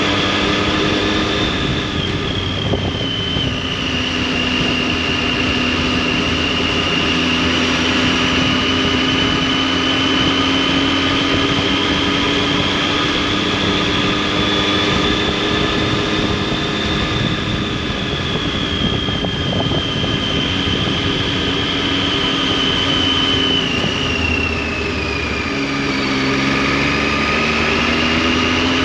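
Triumph Tiger 800's three-cylinder engine and exhaust running under way at a steady cruise, its pitch drifting slowly. Near the end the engine note drops, then climbs again as the bike picks up speed.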